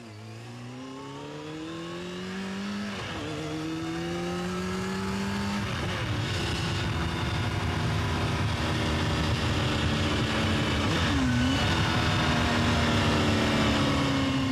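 A high-revving vehicle engine accelerating hard through the gears, its pitch climbing and then dropping sharply at each of three upshifts, growing steadily louder.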